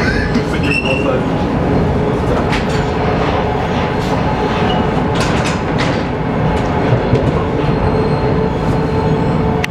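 ER2K electric multiple unit running, heard from inside the passenger car: a steady rumble of wheels on rail with a few sharp clicks, and a steady hum coming in near the end.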